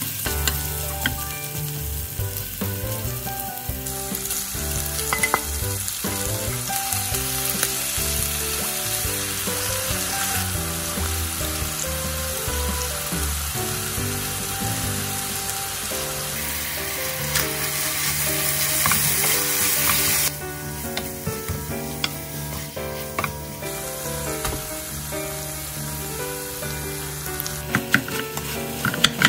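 Diced Spam, onion and green onion sizzling in an oiled frying pan while a wooden spatula stirs them. The sizzle strengthens a few seconds in, is loudest a little past the middle and drops suddenly soon after.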